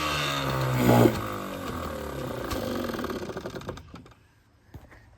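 Old Evinrude 5.5 hp two-stroke outboard running in a test bucket. It drops off, surges briefly about a second in, then sags and dies away. The owner takes this for the engine leaning out, perhaps not getting enough fuel.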